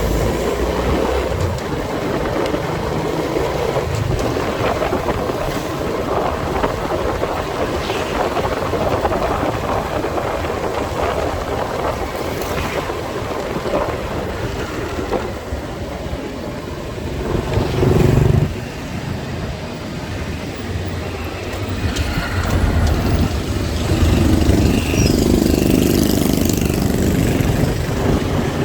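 Street traffic heard from a moving motorcycle: steady road and wind noise with engine sound from the bike and surrounding vehicles. A louder swell builds just past the middle and cuts off suddenly, and the traffic grows louder again near the end.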